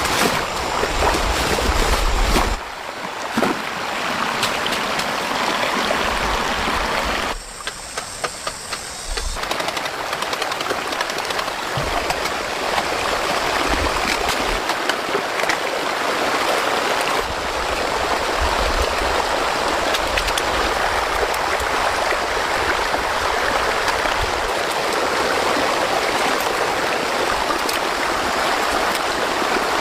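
Fast-flowing floodwater rushing steadily, with a short quieter stretch about seven seconds in.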